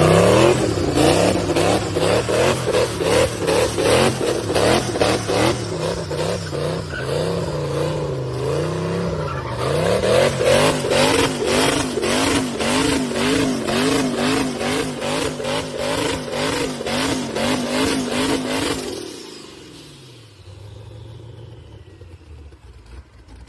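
BMW M3 twin-turbo engine revving hard, its pitch swinging rapidly up and down about twice a second, with sharp cracks about four times a second. Near the end the revs fall away to a quieter, lower running note.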